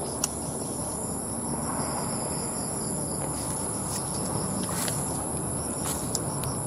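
Steady high-pitched drone of insects, with a few faint clicks scattered through it.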